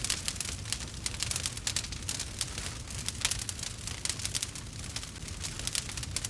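Log fire crackling: a dense, irregular run of small sharp pops and snaps over a low steady rumble, with one louder pop about three seconds in.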